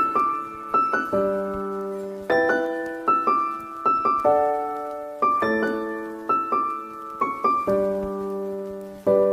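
Background music: a piano playing a slow melody of single struck notes and chords, each note fading away after it is struck.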